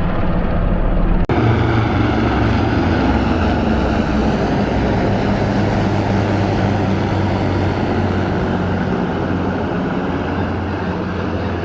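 A loud, steady engine drone with a low hum, with a brief break about a second in.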